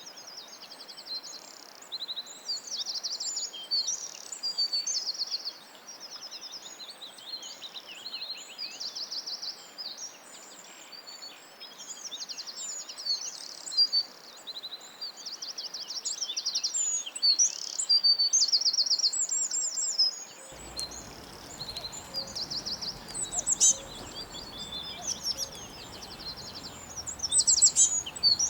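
Several songbirds singing together in a forest, overlapping rapid trills, chirps and whistles. About twenty seconds in, the background hiss turns fuller and picks up a low rumble while the birdsong carries on.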